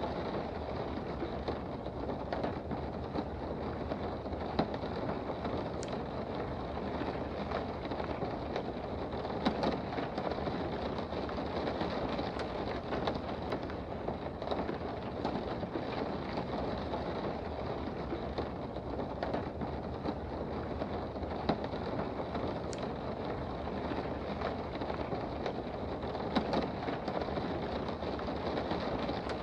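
Steady rain heard from indoors: an even, unbroken rush, with a few sharp drop ticks now and then.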